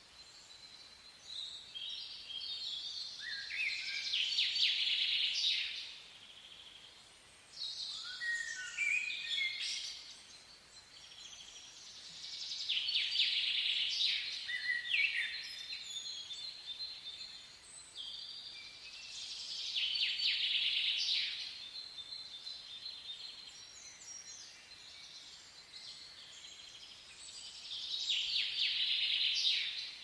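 Birds singing outdoors: about five bouts of high chirping song, each two to three seconds long, over a faint steady hiss.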